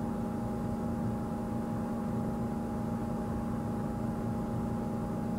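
Steady engine hum of a safari game-drive vehicle idling.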